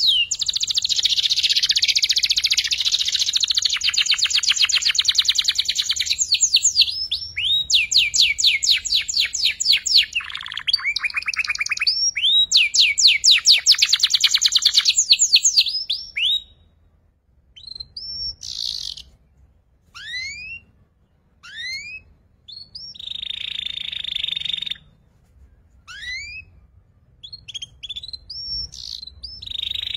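Young domestic canary practising its song: fast rolling trills of rapidly repeated notes for about the first half, then separate rising chirps with short buzzy phrases in the second half.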